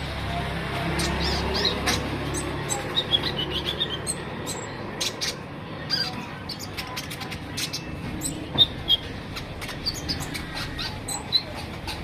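Konin songbird chirping in short, high, scattered notes, mixed with many sharp clicks. This is the bird's everyday lively vocalising that keepers call 'gacor'.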